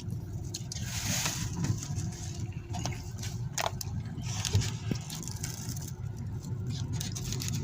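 Steady low rumble of a car, with scattered small clicks and crunches of someone biting into and chewing a taco.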